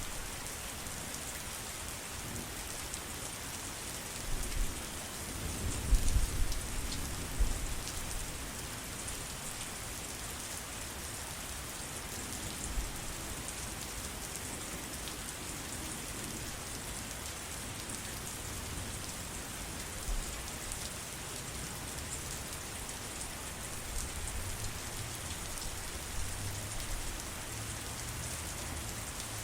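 Steady heavy rain, a dense even hiss of drops. Low rumbles swell under it about four seconds in and again near the end.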